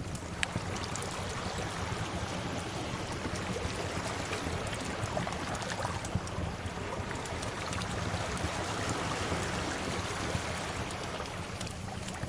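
Continuous wash of sea waves with a wood fire crackling over it, a few sharp pops standing out.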